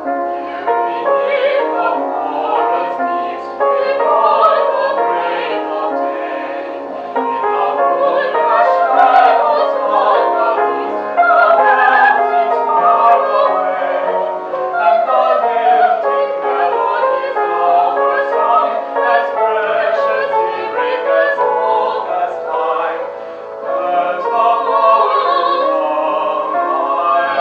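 Operatic singing of an operetta number in classical style, sung without a break.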